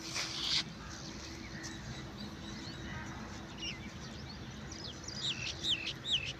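A bird chirping: a run of quick up-and-down sweeping calls near the end, over a faint steady hum, after a short burst of hiss at the start.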